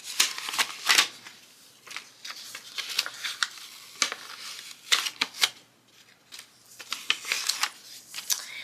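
Paper rustling and light, irregular clicks and taps from handling a paper planner and sticker sheets at close range.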